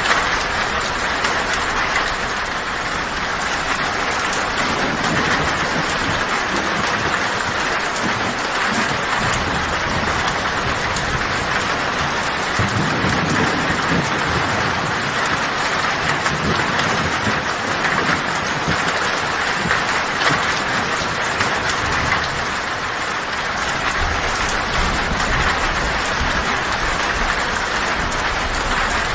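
Heavy rain falling on a metal tin roof, a steady dense patter, with low thunder rumbling that swells and fades a few times underneath.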